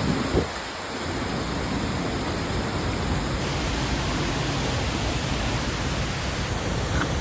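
Steady rushing of a waterfall, an even roar of falling water, with a couple of brief low knocks right at the start.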